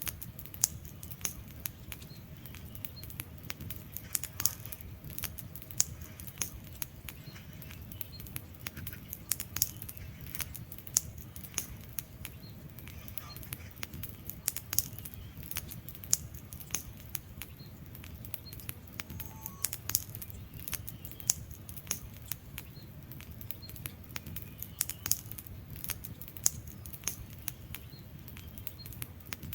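Wood fire burning in a fireplace: irregular sharp crackles and pops from the logs, several a second, over a steady low rumble of the flames.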